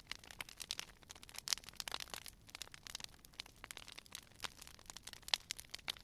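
Campfire crackling: burning wood giving a continuous run of irregular sharp pops and snaps, with a couple of louder pops about one and a half seconds in and again near the end.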